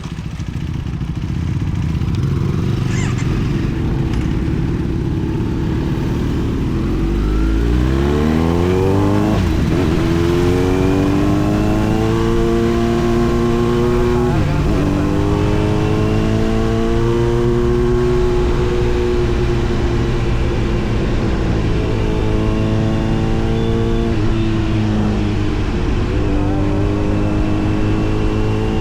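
Kawasaki Z900's inline-four engine through an SC Project aftermarket exhaust: a steady low rumble for several seconds, then the bike accelerates, its pitch climbing and dropping back at each upshift, several times.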